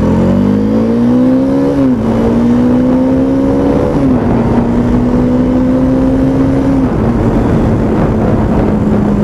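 Bajaj Dominar 400's single-cylinder engine accelerating up through the gears: the pitch climbs and drops sharply with an upshift about two seconds in, climbs more slowly and drops again about four seconds in, and once more near seven seconds, then holds steady at cruising speed.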